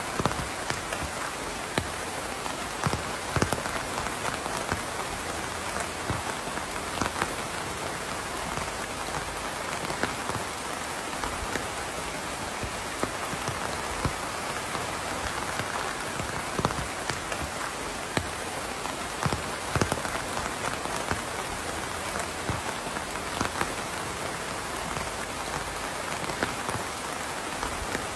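Steady rain falling on a surface, a constant hiss with many distinct drops ticking and pattering.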